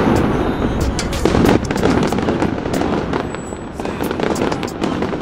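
Fireworks going off: a quick run of sharp pops and crackles.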